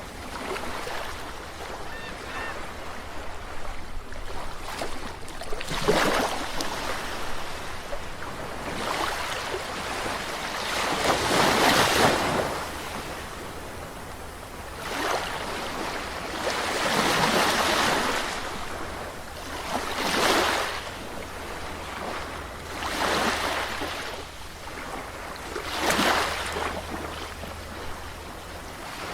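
Ocean waves breaking and washing on a shore, one surge after another every three to six seconds, with the loudest about twelve seconds in.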